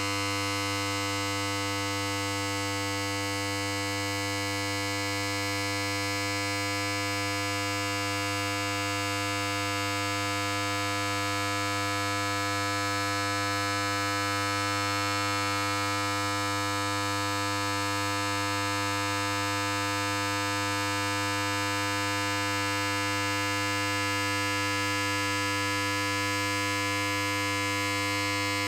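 Electric hair clipper running without a break: a steady, unchanging buzz.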